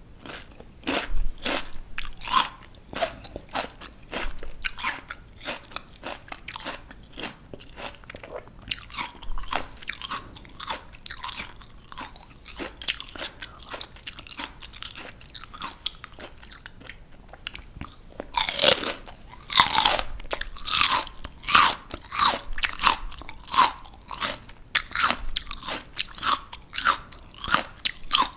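Crisp raw vegetables being bitten and chewed close to the microphone: a steady run of sharp wet crunches. About two-thirds of the way through comes a fresh bite, with a denser, louder burst of crunching.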